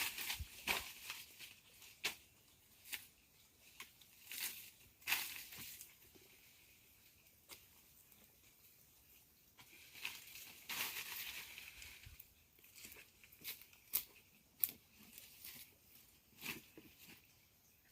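Irregular rustling and crackling with scattered sharp snaps and clicks, as of dry material being handled, torn or crushed; the busiest spells come near the start and again about two-thirds of the way through.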